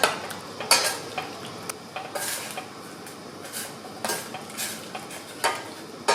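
A utensil stirring minced chicken cooking in water in a pot, with irregular scrapes and knocks against the pot.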